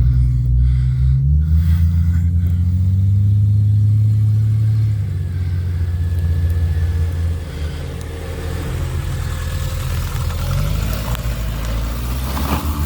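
A vehicle engine accelerating, its pitch rising over the first couple of seconds, then running steadily before easing off about halfway through.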